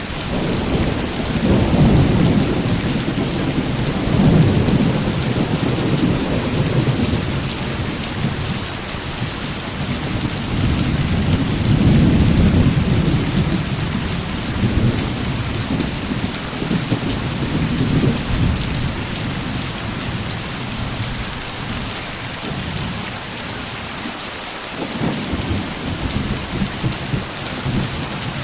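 Heavy rain falling steadily, with low rolling thunder that swells and fades several times, loudest about two, four and twelve seconds in.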